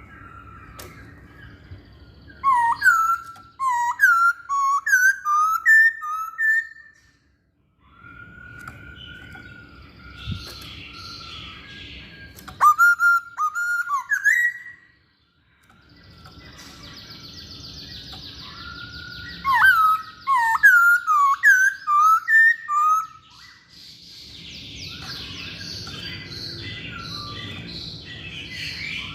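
Masked laughingthrush (poksay Hongkong) singing vigorously: four phrases of rapid, loud whistled notes that swoop up and down, with short pauses between them.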